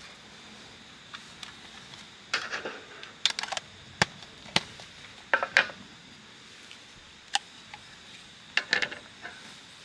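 Irregular light clicks, knocks and short scrapes of small objects being handled, clustered in a few quick runs with pauses between.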